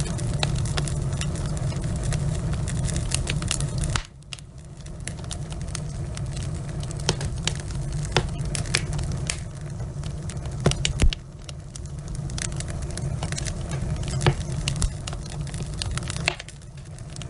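Wood fire burning in a fireplace, with the logs crackling in frequent irregular sharp pops over a low steady rush of flame. The rush drops suddenly about four seconds in and again near the end, and one louder pop comes about eleven seconds in.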